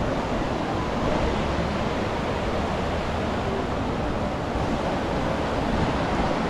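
Surf washing onto a beach, a steady, even rush of noise with no distinct breaks.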